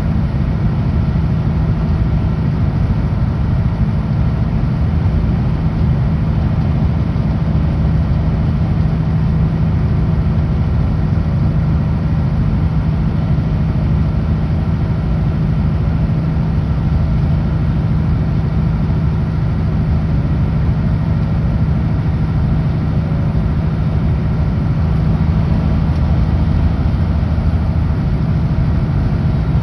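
Kenworth W900L semi truck driving on the highway: its diesel engine drones steadily, mixed with road noise.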